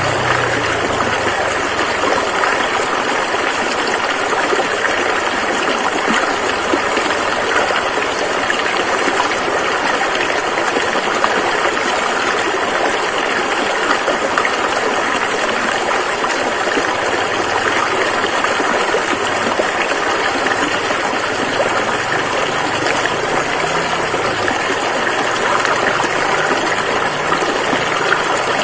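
A fast-flowing river rushing steadily: a dense, even water noise with no breaks.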